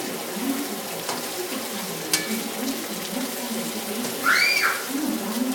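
Chop suey frying in a pan: a steady sizzling hiss with a couple of sharp utensil clicks. About four seconds in there is a short squeak that rises and falls.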